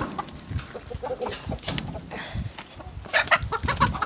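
A flock of domestic chickens clucking, with a run of quick clucks about three seconds in.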